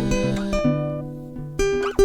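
Acoustic guitar music: held chords that fade a little, then a new chord struck near the end.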